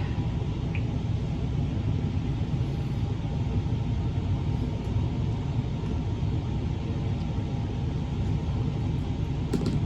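Steady low rumbling background noise with a faint even hum, like machinery running, unchanging throughout.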